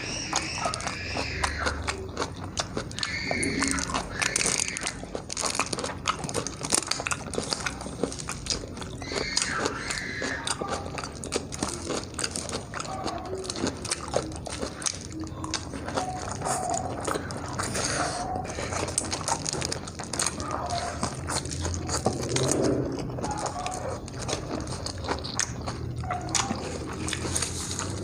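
Close-up eating sounds: a person chewing and biting food, with many small irregular wet clicks and crunches from the mouth.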